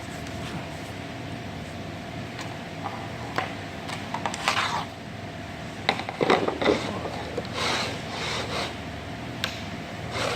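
Wooden flooring planks being handled and worked together by hand: scattered knocks and short rubbing scrapes of board on board, busiest in the middle of the stretch, over a steady hum.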